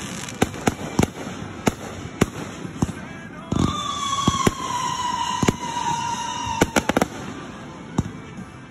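Fireworks going off: a run of sharp bangs and pops from bursting shells. A whistling firework sounds from about three and a half seconds in to about seven seconds, its pitch sliding slowly downward, with a cluster of quick bangs near its end.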